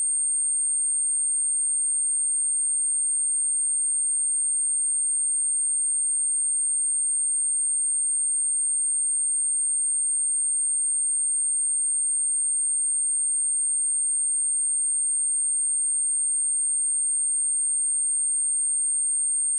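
A steady, high-pitched pure sine-wave test tone at 8624 Hz, held at one pitch and level throughout.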